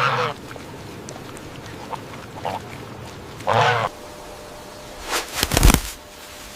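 Short animal calls, each under half a second: one at the start, a brief faint one about two and a half seconds in, and a stronger one about three and a half seconds in. Near the end comes a quick burst of loud thumps, louder than the calls.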